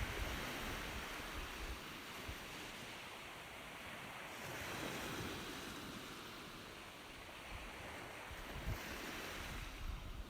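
Ocean surf: waves washing in with a steady rushing noise that swells and eases a few times.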